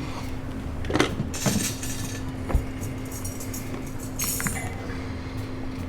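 Objects being handled: a few soft knocks and short patches of crinkly rustling with light clinks, over a steady low hum.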